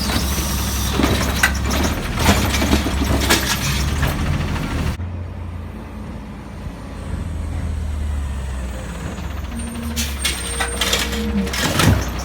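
Recycling truck's diesel engine running, with hissing and mechanical clatter from the collection work. About five seconds in the sound cuts abruptly to a quieter, steady engine drone, with a brief whine and a couple of knocks near the end.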